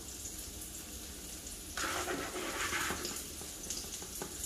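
Cornmeal-coated yellow squash frying in hot oil in a cast-iron skillet, a steady sizzle that swells louder for a second or so about two seconds in.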